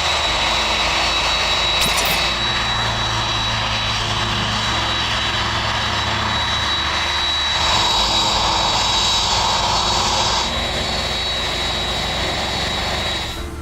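Jet engines of a cargo airliner running steadily as it taxis after landing, a continuous rush with a thin high whine over it. The sound swells for a couple of seconds near the middle, then cuts off suddenly at the end.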